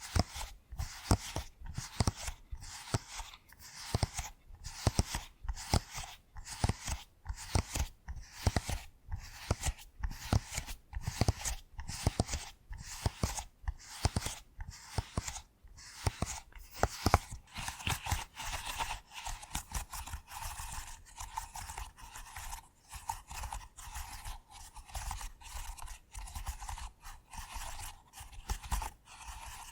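Silicone push-pop fidget toy having its bubbles pressed one after another, a steady run of crisp pops with a soft thump in each, about two a second.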